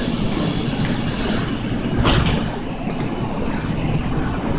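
Kintetsu electric train rumbling beside the platform, with a high hiss through the first second and a half and a short knock about two seconds in.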